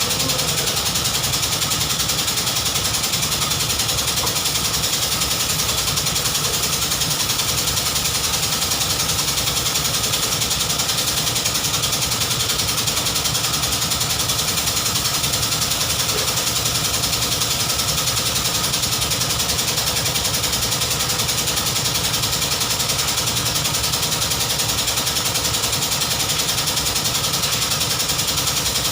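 BMW 320i engine idling steadily.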